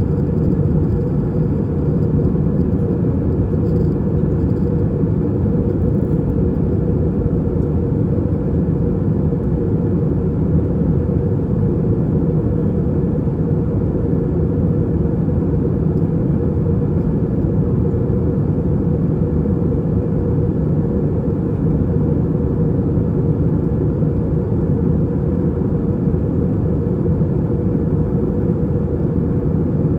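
Steady cabin noise inside an Airbus A320-232 in its climb: the IAE V2500 engines and the airflow over the fuselage making a constant low rumble that does not change.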